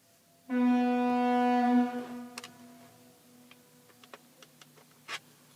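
Fire-alarm diaphone sounding one steady, horn-like blast of about a second and a half, then fading away. A few faint clicks follow.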